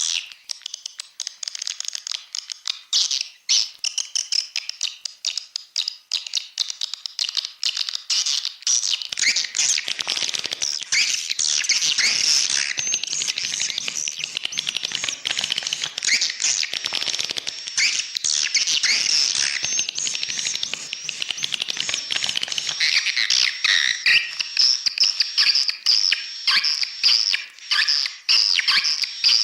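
Swiftlet calls from a swiftlet-house lure recording: dense, rapid high chirps, twitters and clicks overlapping without pause. About nine seconds in, a lower layer joins and the sound grows fuller.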